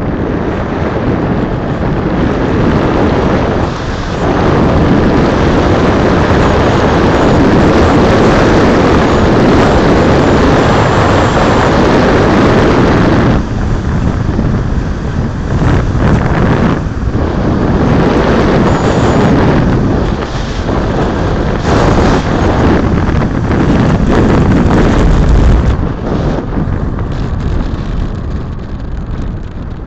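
Loud wind rushing over the microphone of a rider moving at speed, gusting and dropping away every few seconds.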